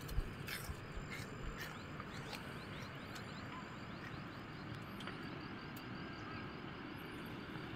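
Steady outdoor background noise with a few light knocks, the sharpest just after the start, and faint high chirps.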